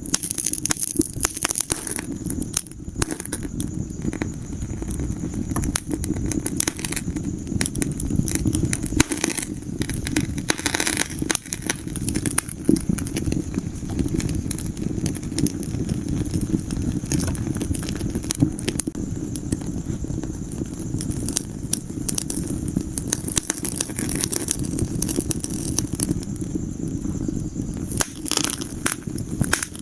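Wood fire in a fireplace crackling: frequent irregular sharp pops and snaps over a steady low rush of the burning fire.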